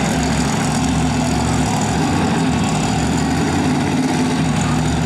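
Monster truck engine running at a steady low idle, with no revving.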